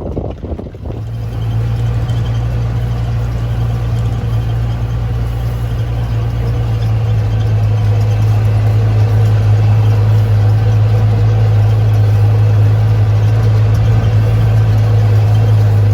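An engine running steadily with a loud, low hum that sets in about a second in and slowly grows louder.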